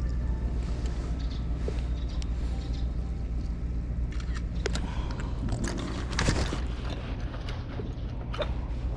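Steady low mechanical hum, with a few scattered clicks and a short rustle about six seconds in.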